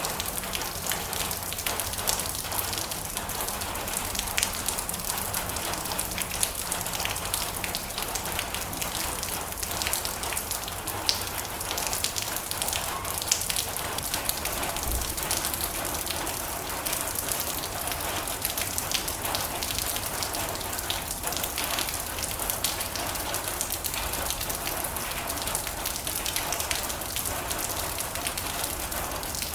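Rain falling steadily on a metal roof, a dense patter of drops with many sharper individual taps.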